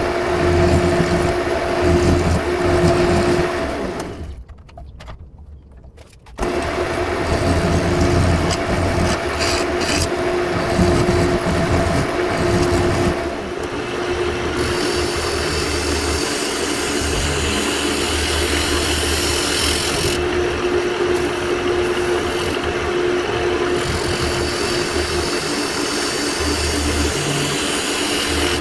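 Wood lathe running with a turning tool cutting the outside of a wooden bowl: a steady motor hum under a continuous scraping, shaving noise from the tool on the spinning wood. It goes quieter for about two seconds around four seconds in, then resumes suddenly.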